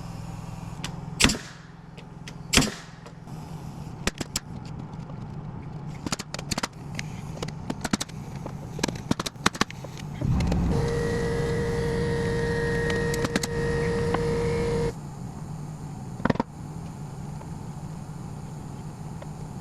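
A steady engine hum runs throughout. It carries two loud knocks near the start and a run of clicks and clatter. About halfway through, a motor runs at a steady whining pitch for roughly five seconds and then stops abruptly.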